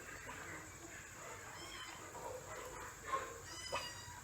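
Faint short high-pitched animal calls, twice: about a second and a half in and again near the end, over a low steady background hiss.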